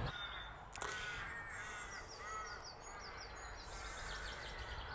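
Birds calling, including harsh crow-like caws and a quick run of high chirps, with one sharp knock about a second in.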